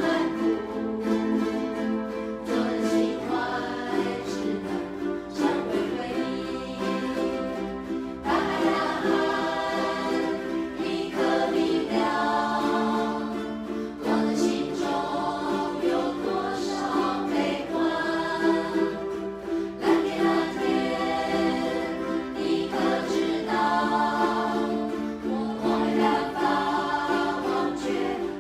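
A ukulele band strumming chords while a group of voices sings along together.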